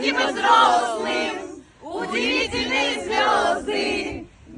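A group of people singing together in short phrases, with a brief break about halfway through.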